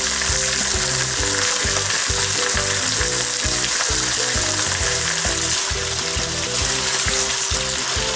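Mutton pieces and sliced onions sizzling steadily in hot oil in a wok, with a wooden spatula stirring them near the end. Background music with a steady beat plays underneath.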